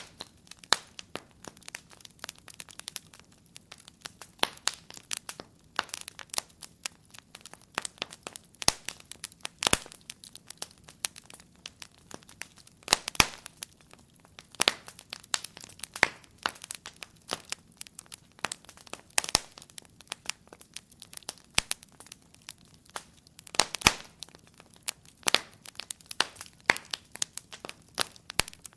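Wood fire crackling: irregular sharp pops and snaps, several a second, over a quiet background.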